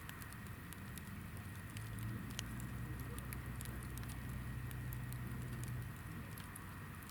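Hinoki (Japanese cypress) firewood burning in a campfire, crackling with scattered small sharp pops. A low steady hum runs underneath, louder from about two seconds in until about six seconds in.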